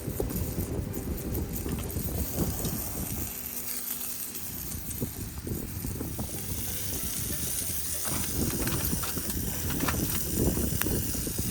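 Wood fire crackling in a fire pit, the crackles thickening toward the end, over a low rumble of wind on the microphone.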